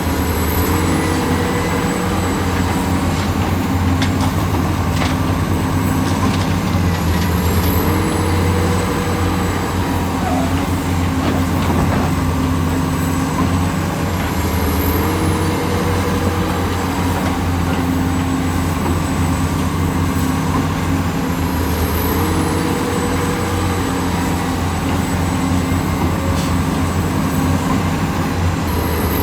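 Hydraulic excavator's diesel engine running under load. Its note steps up in pitch in a repeating cycle about every seven seconds, each time with a short high chirp.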